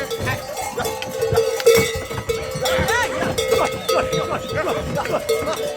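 Bells worn by a herd of goats, ringing and clanking over and over as the animals move, with short pitched calls and knocking clatter among them.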